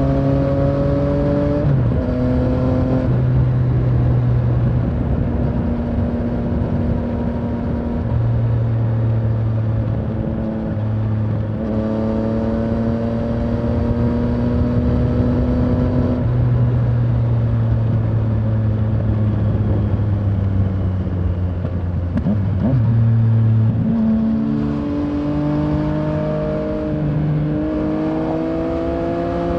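Yamaha Tracer 900's three-cylinder engine under way, heard from the rider's seat: the engine note climbs and falls slowly with the throttle and jumps several times at gear changes, over a steady rush of wind.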